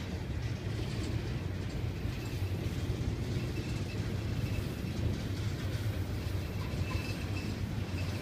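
Loaded intermodal freight cars of a slow-moving train rolling past, a steady low rumble of wheels on rail.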